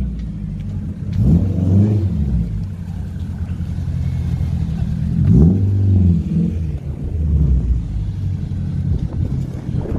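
Honda Civic Type R (EP3) four-cylinder engine blipped twice, about a second in and about five seconds in, each rev rising and dropping back to a steady low run in between as the car pulls away slowly.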